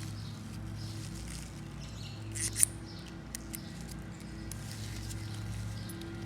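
Scattered light clicks and scrapes of small carburetor parts being handled, with one sharp click about two and a half seconds in, over a steady low hum.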